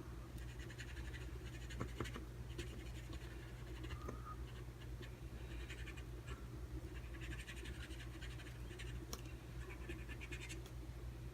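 Faint scratching of a brush-tip marker rubbed in short runs of strokes over a stamp to ink it, with a few light clicks.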